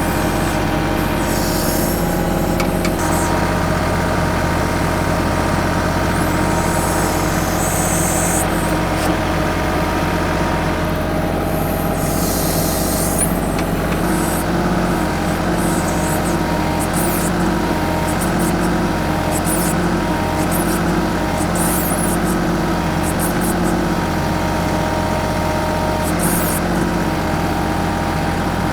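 The diesel engine of a 25 hp TYM 2515H compact tractor runs steadily under load while working a BH150 backhoe. Short bursts of hiss come now and then over the engine.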